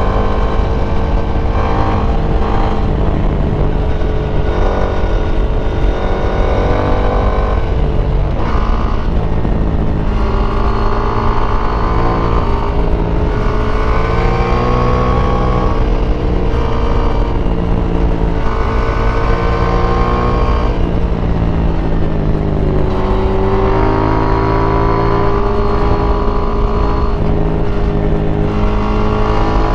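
KTM 890 Duke R's parallel-twin engine through its stock exhaust, rising in pitch under acceleration and falling off again, several times over, as the bike is ridden through a series of corners. Throughout there is a steady low rumble.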